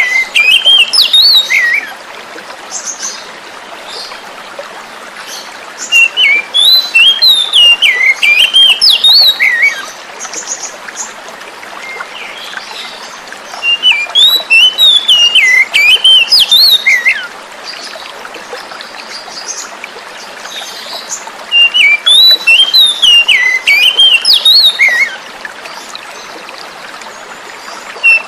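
Oriental magpie-robin (kacer) singing loud, varied whistled phrases that recur about every eight seconds, over the steady hiss of flowing water.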